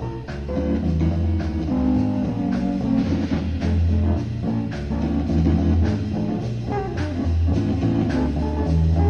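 A 1960s amateur beat band playing a blues in F, with electric guitar, organ, bass and drums, heard through a home reel-to-reel tape recording.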